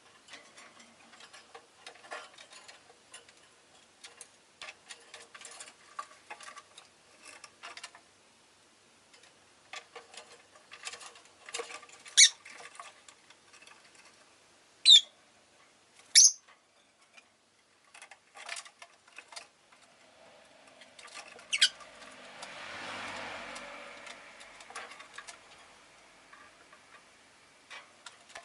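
Rosy-faced lovebirds giving four sharp, high, short chirps, spread over the middle of the stretch, over a steady scatter of small clicks and taps. A vehicle passes outside a little past the middle, a rushing sound that swells and fades over a few seconds.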